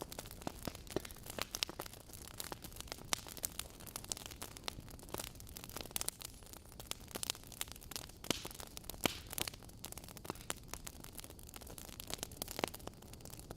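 Faint crackling of a wood fire: irregular sharp pops and snaps over a soft hiss.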